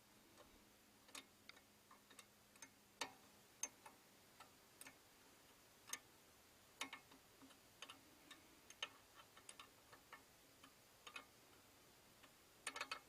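Faint, irregular clicks and light metal taps of a 13 mm wrench being set on and turned on the exhaust header bolts.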